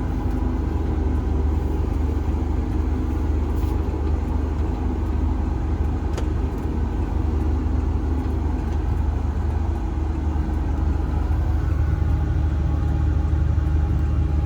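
Combine harvester engine running steadily as the machine drives along a road: an even low drone. Two faint clicks are heard partway through.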